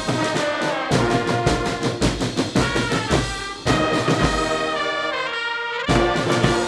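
Military brass band playing, with trumpets and trombones holding chords over low drum thumps.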